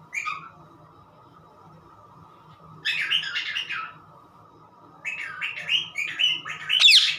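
Parrot calling and chattering: a short call at the start, a burst of chatter about three seconds in, then a run of quick calls from about five seconds on, ending in a sharp whistle.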